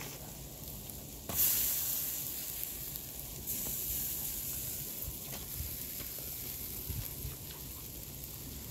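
Food sizzling while it cooks: a loud sizzle starts suddenly about a second in, lifts again a couple of seconds later, then slowly dies down to a steady fry.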